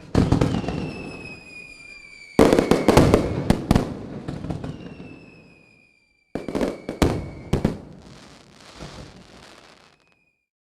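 Aerial fireworks going off in three volleys of sharp bangs and crackling, each dying away. A high whistle falling slightly in pitch sounds between the volleys, and the sound cuts out abruptly twice.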